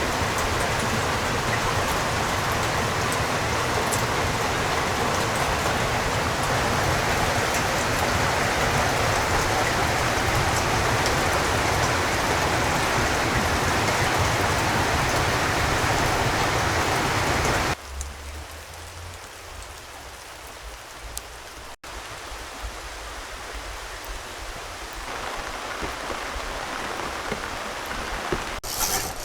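Steady heavy rain, a dense even hiss. About two-thirds of the way through it cuts off suddenly to a much quieter background, which slowly grows louder again.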